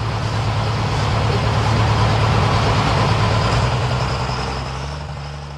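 Diesel pulling truck's engine running steadily at low revs after its pass, fading away near the end.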